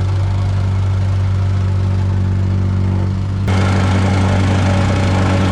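Engine of the heavy equipment running steadily with a low drone; about three and a half seconds in it turns abruptly louder and rougher.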